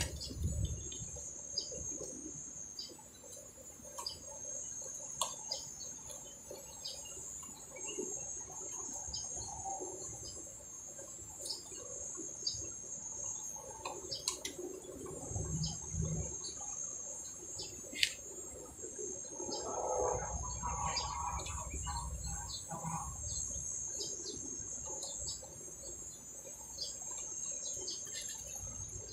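Short bird chirps scattered throughout over a steady high-pitched drone. There is a sharp knock about two-thirds of the way through, followed by a few seconds of handling clatter and rumble.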